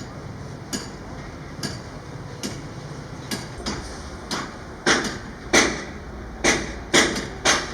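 Hammer blows on metal at a steady pace, about one a second, coming harder and a little quicker in the last few seconds, over a low steady hum.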